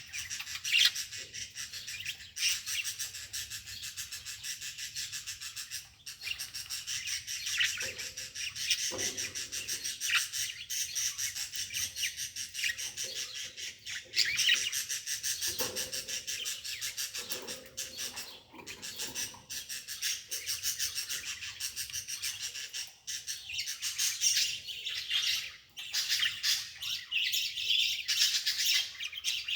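Small bird chirping and twittering continuously in quick, high-pitched trills, with a few lower notes mixed in.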